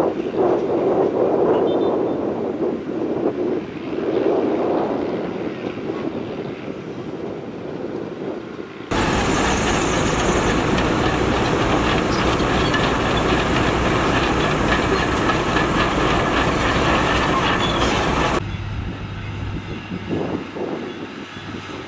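Heavy construction machinery working: diesel engines running with rattling and clanking, changing abruptly about nine seconds in and again near the end, where the machine sound switches.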